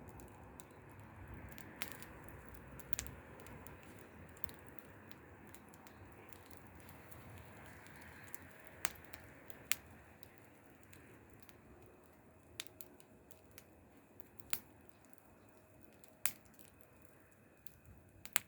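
Wood fire crackling: a low steady hiss and rumble of burning wood with irregular sharp pops, several of them loud, scattered through it.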